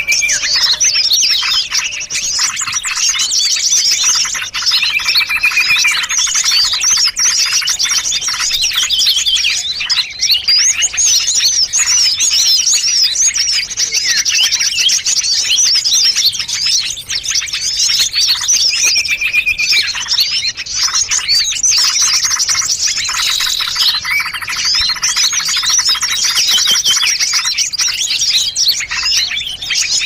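Dense chorus of many small songbirds chirping and twittering at once, their calls overlapping without pause and mixed with a few short steady whistles: a combined bird-lure recording (suara pikat) for attracting small birds.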